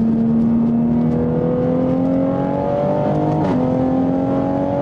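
Turbocharged 2020 Toyota Supra's straight-six engine pulling hard under acceleration, its note climbing steadily, then dropping sharply at an upshift about three and a half seconds in before climbing again in the next gear.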